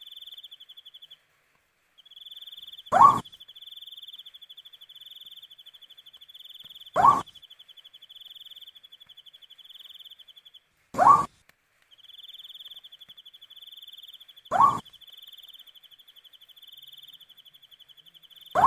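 An owl giving a single short call about every four seconds, over a steady high insect trill that breaks off twice for about a second.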